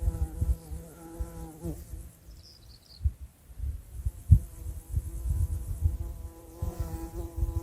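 A flying insect buzzing with a steady hum that breaks off about two seconds in and comes back near the end, over irregular low rumbling thumps. A brief high chirp sounds once in the gap.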